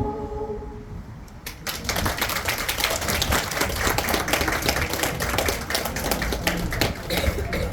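The choir's last held chord dies away, then an audience applauds, a dense clatter of many hands clapping that starts about a second and a half in and keeps going.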